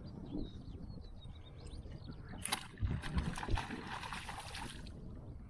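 Water splashing in shallow floodwater: a sudden splash about halfway through, then about two seconds of sloshing with a few low thuds. Birds chirp faintly at first.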